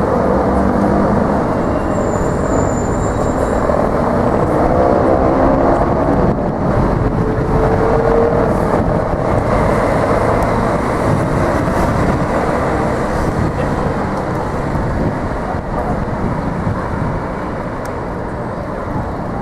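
A large vehicle running close by with a steady heavy rumble; a motor whine rises in pitch over the first several seconds.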